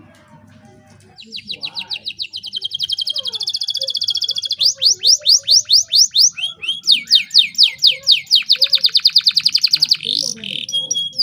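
Domestic canary singing fast trills of rapidly repeated high notes, starting about a second in and switching to a different trill phrase several times.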